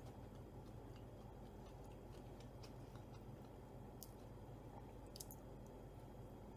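Faint, close chewing and mouth sounds of someone eating a soft naan wrap, with a couple of small clicks about four and five seconds in, over low steady room noise.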